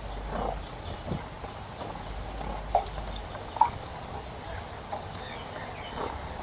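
Birds at a bird bath: scattered short knocks and splashes, and around the middle a quick run of four brief, high chirps, with one more high note near the end.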